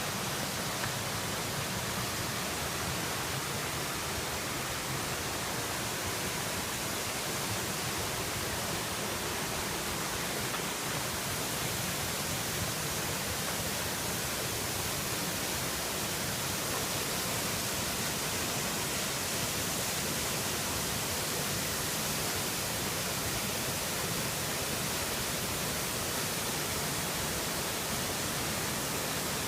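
Waterfall pouring: a steady, unchanging rush of water noise.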